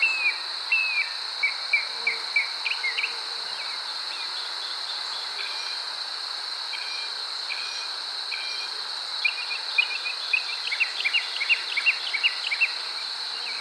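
A steady, high-pitched outdoor insect chorus. Over it runs a string of short repeated chirps for the first few seconds, then a faster flurry of them near the end.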